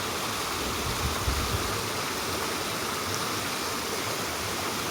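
Mountain stream running, a steady rush of flowing water, with a few low thumps about a second in.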